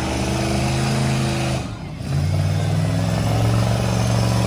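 Full-size truck engines running hard in a demolition derby. The engine note drops away briefly just under two seconds in, then picks up again and holds steady.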